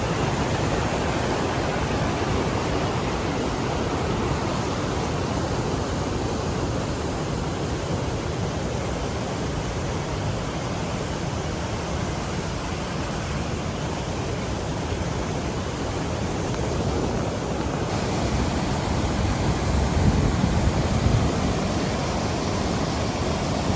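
Waterfall rushing: a steady wash of falling water, a little louder about twenty seconds in.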